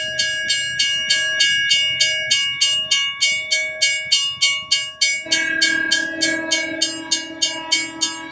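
Train sound: a bell ringing in rapid, even strikes, about four a second. A lower, horn-like chord joins about five seconds in.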